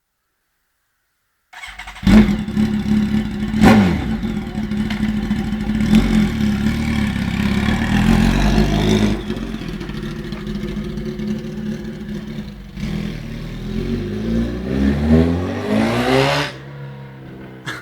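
Kawasaki ZX-10R inline-four sportbike engine with no exhaust fitted, starting up about a second and a half in, with a quick sharp rev blip soon after. It then idles fast, settles lower at about nine seconds, and revs up and back down near the end.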